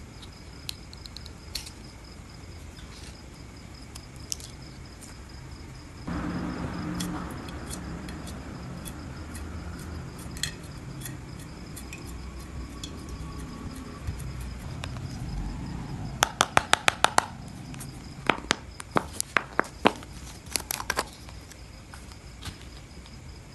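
Clear glitter slime being worked by hand: a soft squishing from about a quarter of the way in, then a quick run of sharp clicking pops about two-thirds through, followed by scattered single pops.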